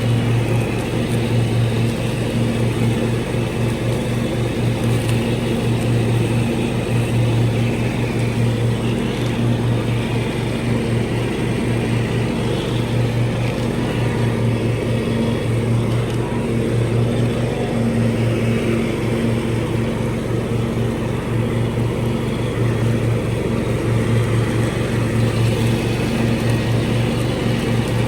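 Lawn mower engine running steadily at constant speed, mowing with freshly sharpened blades.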